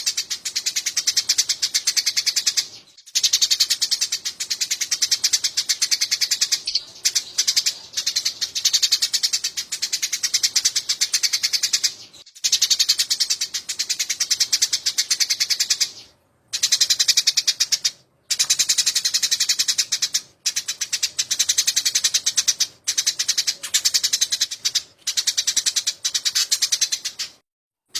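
Eurasian tree sparrows (burung gereja) giving fast, dense runs of chirps, the agitated calls of sparrows fighting, in bouts of a few seconds broken by short gaps.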